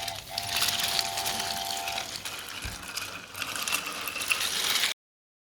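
Wooden toy train pieces clattering and rattling, with a steady tone lasting about a second and a half near the start. The sound cuts off suddenly near the end.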